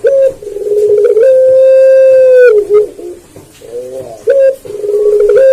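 Puter pelung dove cooing: a fast rolling run of low notes rising into one long, steady drawn-out coo that falls off at the end. The phrase comes twice, the second starting about four seconds in.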